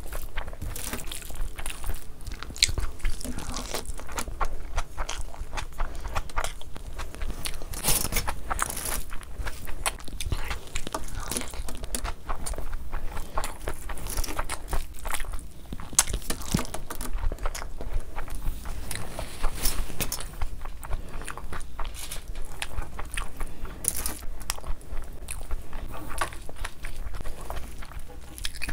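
Close-miked eating sounds: chewing a mouthful of rice and mutton curry, with wet squishing as fingers mix vegetable pulao into curry gravy. It comes as a dense run of short, irregular clicks and smacks.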